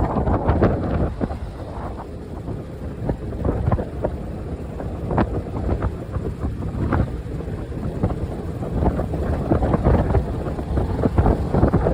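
Wind buffeting the microphone while riding a bike, a heavy, uneven low rumble with gusty spikes.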